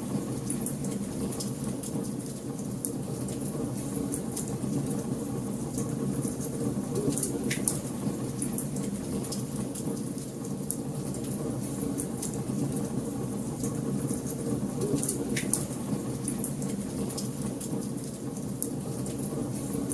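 Wood fire crackling in a fireplace: a steady low rush of burning with irregular sharp pops and snaps scattered through it.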